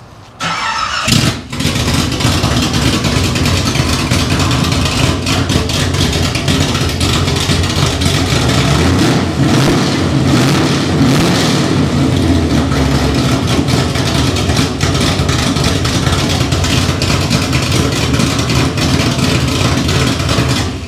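Small-block V8 cranking and catching within about a second on its first start, then running loud and steady with no exhaust fitted beyond the headers, straight out of the open header ports.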